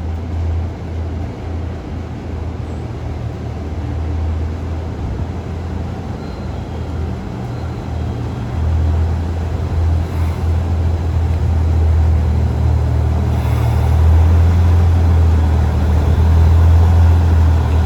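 HC85 series hybrid diesel train running at the station, a heavy low drone that grows steadily louder.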